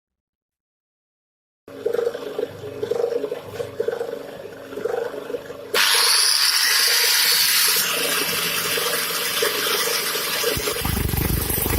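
Woodworking lathe running with a steel ball spinning in it. About halfway through, a sudden, loud, steady rushing hiss of grinding starts as the ball is worked down.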